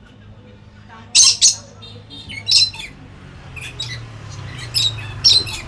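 Lory (nuri parrot) giving a series of short, harsh, high squawks, about six, starting about a second in.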